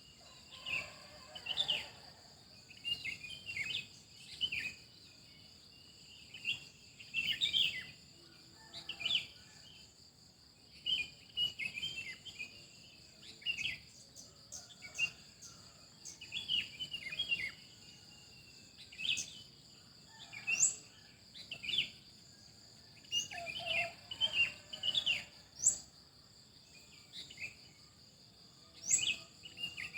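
Several birds chirping in short, frequent bursts of song over a steady, high-pitched insect drone. A few quick, rising whistles cut through now and then.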